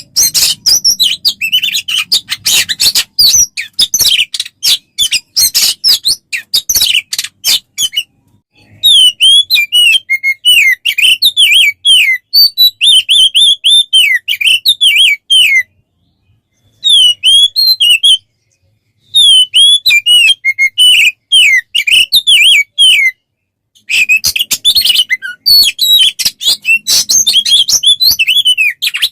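Loud songbird song from a masteran training recording for oriental magpie-robins. It opens with about eight seconds of rapid, sharp clicking notes, then bursts of quick, high whistled and chattering phrases separated by brief pauses.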